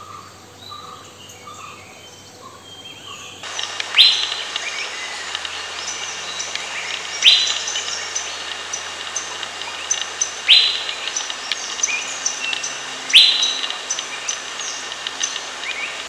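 Forest birdsong, with an Asian fairy-bluebird as the likely caller. About three and a half seconds in, a loud sharp call starts and repeats four times, roughly three seconds apart, with many faint high chirps in between. Before that, only faint chirps are heard.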